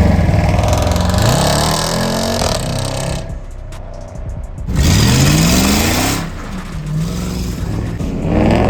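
Muscle car engines revving and accelerating hard, rising in pitch in three sweeps: about a second in, near the middle, and again near the end.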